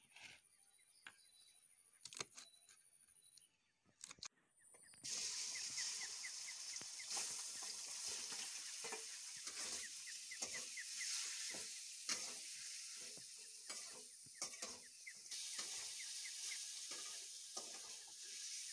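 A few sharp knife clicks on a wooden plate. Then, from about five seconds in, chicken pieces sizzle in oil in a wok on a portable gas stove, with a metal spatula scraping and knocking against the pan as they are stirred.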